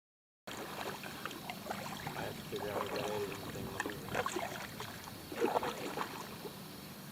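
Paddle strokes in calm river water from a small paddled boat, with irregular splashes and drips. The sound starts abruptly about half a second in.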